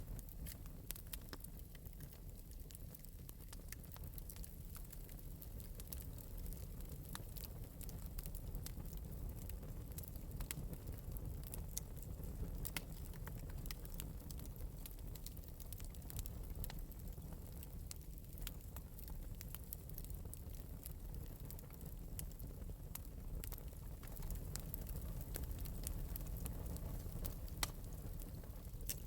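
Wood fire burning in an open metal fireplace, crackling lightly with a scatter of small sharp pops over a steady low rumble of flame.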